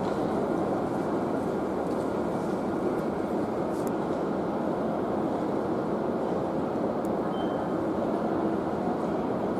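Steady, even train noise that holds at one level throughout.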